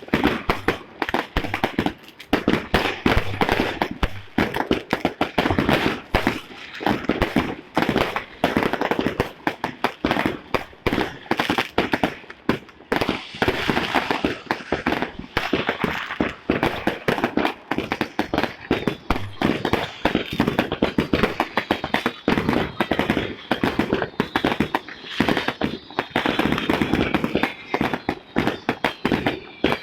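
New Year fireworks and firecrackers going off nonstop: a dense, unbroken rattle of bangs and cracks, many each second, with whistling tones in the last several seconds.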